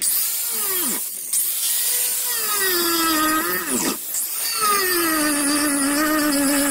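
Handheld power grinder starting up and running at high speed with a steady whine. Its pitch drops sharply twice, about a second in and about four seconds in, as it bogs under load, then holds steady.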